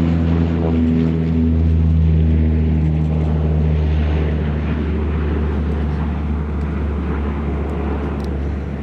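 Canadair CL-415 water bomber's twin turboprop engines running at high power, a loud steady hum with propeller tones on top. It is loudest about two seconds in, then eases off as the propeller tones fade.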